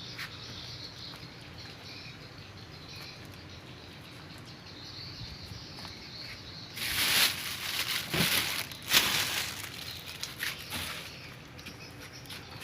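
Rustling and crackling handling noise for about four seconds midway through, over a faint steady high hiss.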